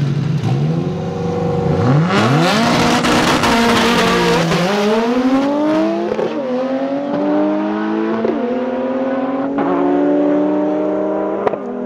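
Drag race car launching from the line and accelerating hard down the strip. The engine pitch climbs, then drops back at each gear shift, about four shifts in all.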